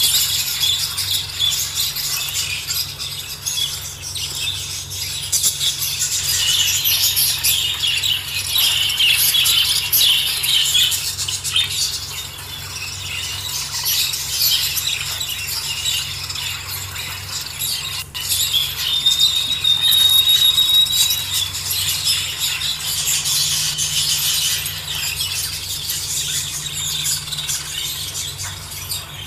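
A flock of budgerigars chirping and chattering continuously. A steady whistle rises out of it about two-thirds of the way through, over a low background hum.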